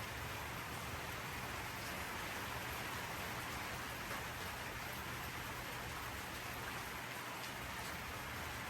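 Steady rushing noise with a few faint ticks scattered through it.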